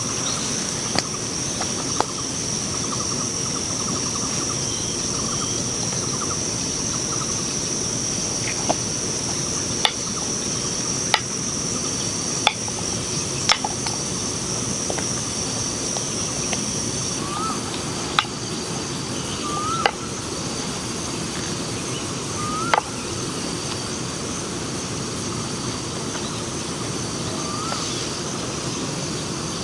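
Outdoor ambience: a steady rushing noise under a high, continuous insect trill that stops about halfway through. In the second half there are four short rising bird chirps, and about a dozen sharp clicks or cracks are scattered throughout.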